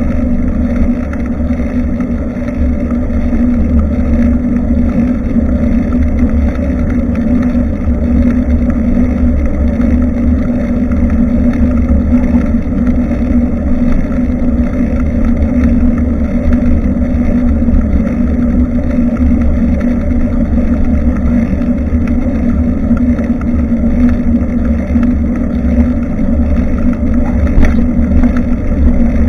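Wind buffeting and road rumble picked up by a bicycle-mounted camera's microphone while riding: a loud, steady low rumble with a constant hum. A brief click sounds near the end.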